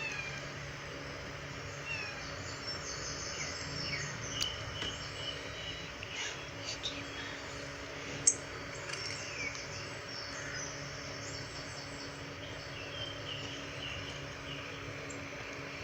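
Small birds chirping and calling, scattered short chirps and quick whistles through the whole stretch, over a steady low hum. A single sharp click about eight seconds in.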